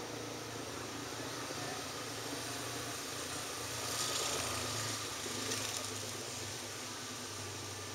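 Steady outdoor background hiss with a low hum during a thunderstorm, and a louder hiss that swells and fades about halfway through.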